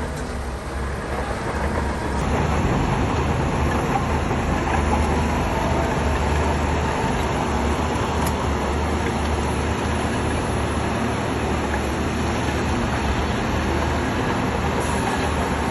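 Shantui crawler bulldozer working, its diesel engine running steadily and getting louder about two seconds in.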